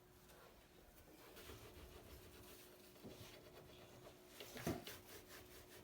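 Near silence: room tone with a faint steady hum and a few soft handling knocks, one a little louder about four and a half seconds in.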